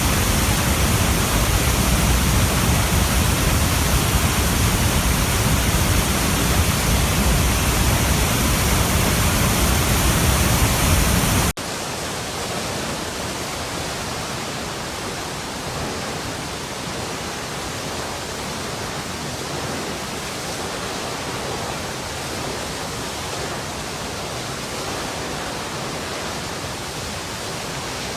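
Running water, a steady rushing flow. About eleven seconds in it cuts suddenly to a quieter, thinner rush with less low rumble.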